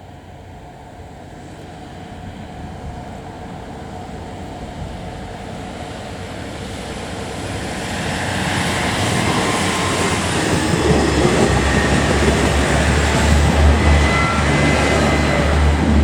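KiHa 110 series diesel railcar train approaching, its running noise growing steadily louder. About 11 s in, a heavy low engine rumble sets in, and the train is loudest near the end as it comes close.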